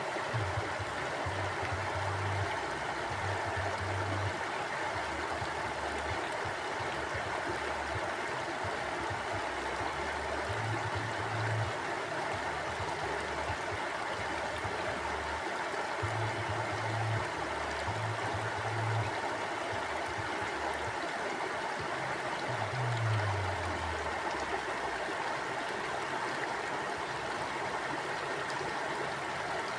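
A river flowing steadily over rocks, a constant rush of water, with short low rumbles coming and going several times.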